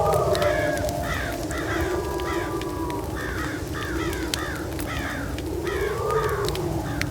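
Crows cawing in a long run of harsh calls, several a second, over a slowly wavering low tone and a low rumbling bed of ambient noise.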